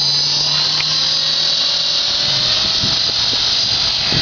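Radio-controlled model helicopter in flight, its motor and rotor giving a steady high-pitched whine, with a fainter lower tone creeping slowly upward.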